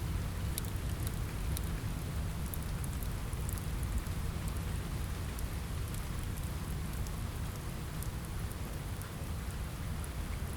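Steady rain on a window with a low rumble, mixed with the scattered small sharp pops of a crackling fire.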